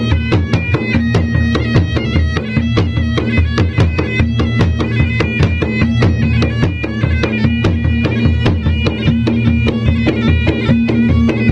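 Traditional Bugis-Makassar gendang drums beaten in a fast, dense rhythm, with a shrill wind instrument playing a melody over them.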